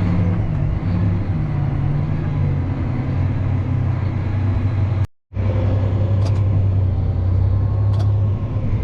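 Heavy farm machinery running steadily with a deep, even drone. It breaks off for a moment about five seconds in and then carries on.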